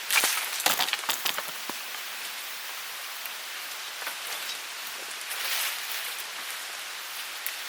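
Steady hiss of a forest stream flowing. A cluster of sharp clicks and crackles in the first couple of seconds stands out above it, and a brief louder swell of noise comes just after the middle.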